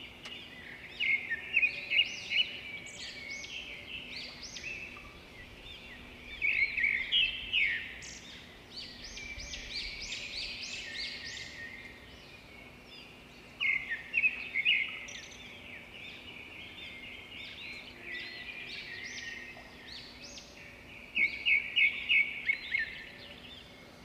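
Birds chirping: groups of quick, high chirps come back every few seconds over a steady outdoor background, with a faint low hum underneath.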